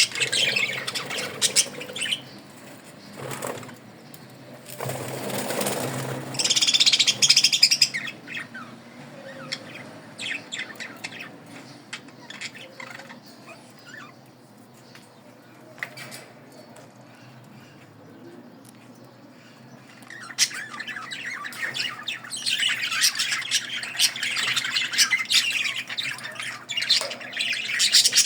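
Many small caged birds chirping in a dense chorus, loudest at the start and again over the last eight seconds or so, with a burst of wing flapping about five seconds in.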